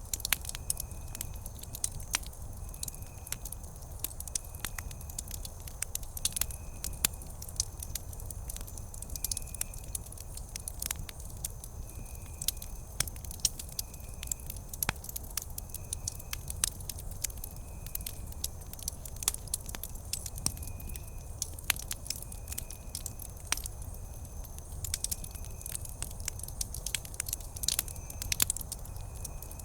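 Wood campfire crackling, with sharp pops scattered irregularly over a low steady rumble of the flames. A short high chirp repeats about once a second.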